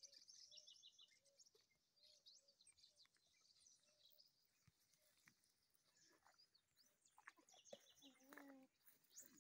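Near silence outdoors, with faint bird chirps and calls scattered throughout and a brief, lower animal call near the end.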